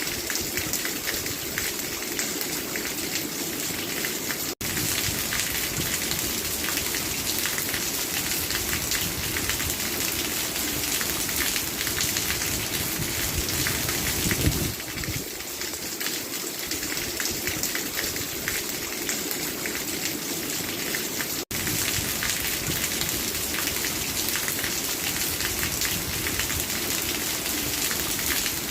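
Rain falling steadily, a dense patter of drops. There is a brief louder swell about halfway through, and the sound cuts out for an instant twice.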